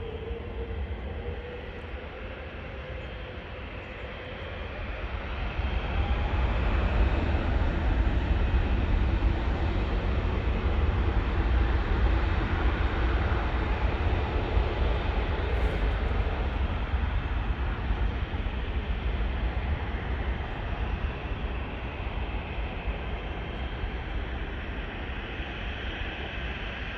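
Airbus A380's four jet engines at takeoff power, a loud steady rush with a strong deep rumble. It builds about five to seven seconds in and eases off slowly in the second half.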